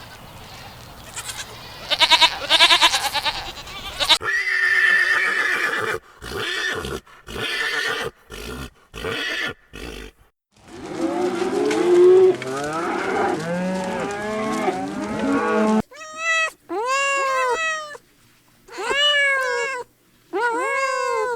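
A run of short clips of farm animal calls, cut one after another: a wavering call, then choppy bursts, then several calls overlapping. The run ends with a series of repeated, arching calls.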